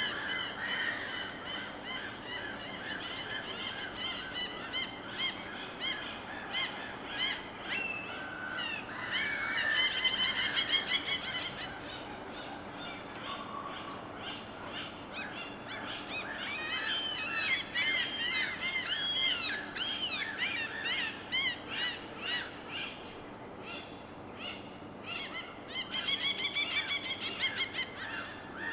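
Many birds calling over and over, in busy bouts, over a steady low background wash.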